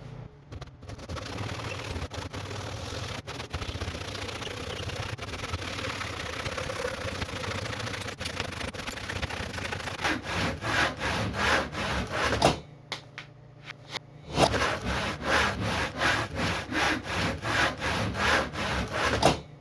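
Hand saw cutting through pallet wood boards. It makes an even rasp at first, then distinct back-and-forth strokes about two to three a second, with a brief pause about two-thirds of the way through.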